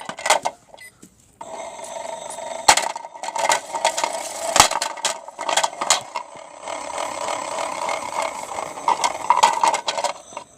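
Toy washing machine running with bricks in its drum: a steady whirring electronic tone, broken by knocks and rattles of the bricks. It starts about a second and a half in and cuts off shortly before the end. The toy's circuit board is glitching.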